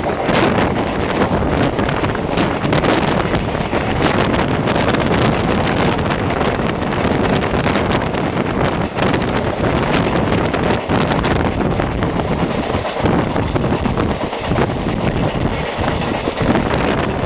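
Rushing wind on the microphone over the rumble of an Indian Railways express train's coaches running at speed, heard from on board.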